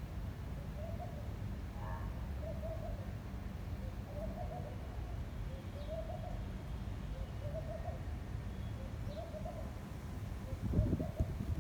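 A bird repeating a short, low hooting call at an even pace, roughly every one and a half seconds. Wind rumbles steadily on the microphone, with a stronger gust near the end.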